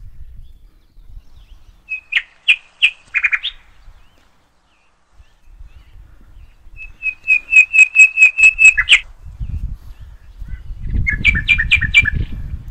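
A bird calling in three bursts of rapid, evenly repeated high chirps; the middle burst is the longest and loudest, about ten notes in under two seconds. Low rumbling noise runs under the later part.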